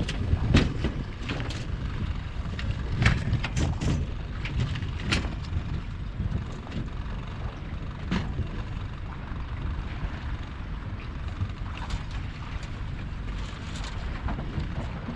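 Steady low rumble of wind on the microphone, with scattered sharp knocks and clicks, more of them in the first few seconds.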